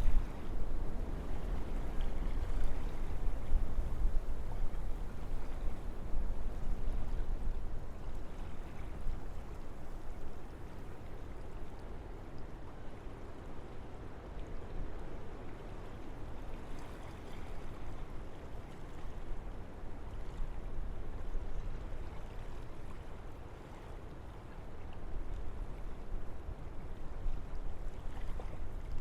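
Wind blowing through forest trees: a steady rushing noise that comes in gusts, stronger over the first several seconds, easing through the middle and swelling again near the end.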